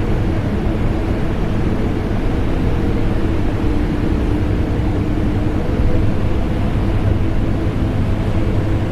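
Steady, deep machine drone of a vacuum cleaner and an air conditioner running together, a low rumbling whoosh with faint humming tones above it.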